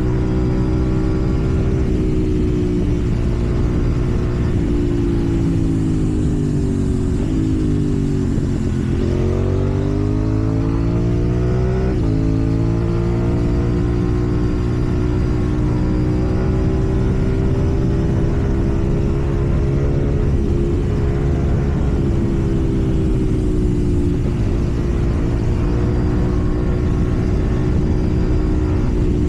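KTM Duke 790's parallel-twin engine running while riding: the engine note drops from about six seconds in, climbs again, breaks briefly near twelve seconds, then holds steady at an even pace.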